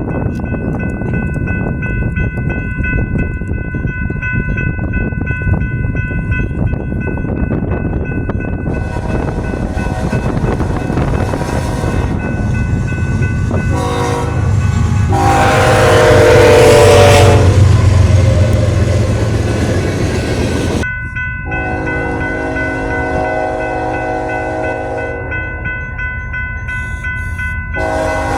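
Train horn blowing a chord as a locomotive passes close by; the horn's pitch drops as it goes by, and the passing is loudest about 16 to 18 seconds in, with a heavy engine rumble. Grade-crossing bells ring steadily at the start and again after the horn's pitch drop.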